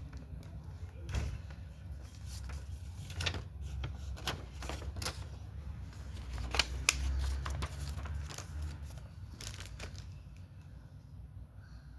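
Candy packaging being handled and opened: a run of irregular sharp clicks and crackles over a low rumble of handling noise.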